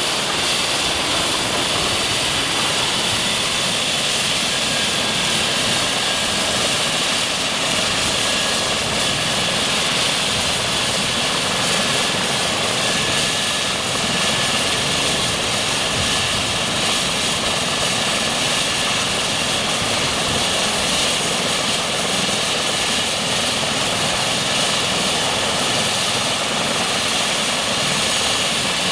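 Eurocopter EC135 T2 helicopter's twin turboshaft engines and rotor running steadily. A high turbine whine rises in pitch over the first several seconds, then holds steady.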